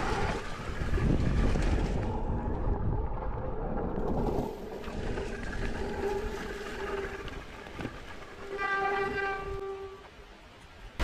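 Mountain bike descending a wet, muddy trail, with rumble and rattle on the helmet or bike camera's microphone. About a second long near the end, a steady high squeal rings out, typical of disc brakes with worn, metal-on-metal pads.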